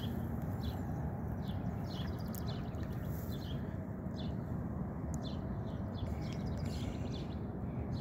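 Short, high bird chirps, a few a second at uneven spacing, over a steady low rumble.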